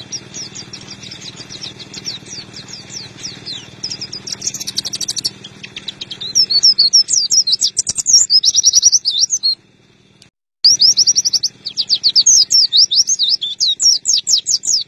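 White-eye (pleci) singing a fast, high twittering song of rapid chirps, much louder from about six seconds in. The song breaks off briefly a little past the middle and resumes.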